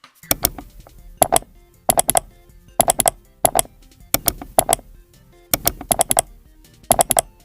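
Music-like sound effect made of clusters of sharp, ringing hits, about one cluster a second, over a steady low backing.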